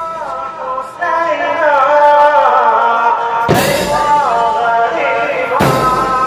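A male radood chanting a Shia mourning elegy (latmiya) in long, wavering melodic lines. It is cut by a loud, bright crash about every two seconds, matching the mourners' chains striking in unison in a zanjeel procession.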